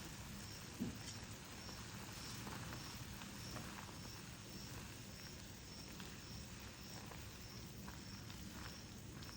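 Faint outdoor ambience with a cricket chirping steadily, a short high chirp about twice a second, over scattered faint clicks and one soft thump about a second in.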